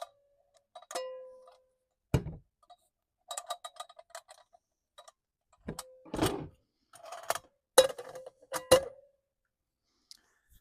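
Metal cookware being handled: a string of clinks and knocks, several ringing briefly like a metal pan or lid being struck, with one duller knock about two seconds in.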